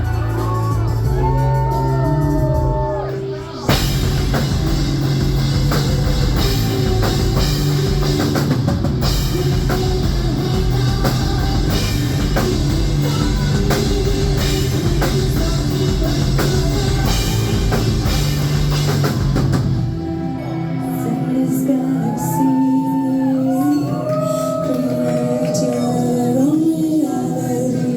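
Live heavy metal band playing, with a female voice singing. For the first few seconds the melody is sung over lighter backing. The full band with heavy drums and guitars crashes in about four seconds in, then drops back to a lighter, sung passage with little bass after about twenty seconds.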